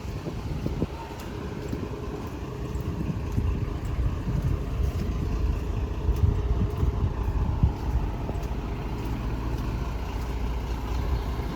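Road traffic going by: a continuous low rumble of motorbike and car engines and tyres on a city street.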